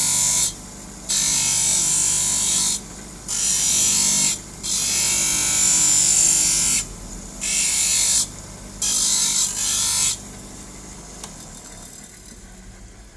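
Hand lens-edging grinder running, with a plastic eyeglass lens pressed against its abrasive wheel in repeated passes: about six bursts of hissy grinding, each one to two seconds long with short breaks, over the steady hum of the motor. The grinding stops about ten seconds in.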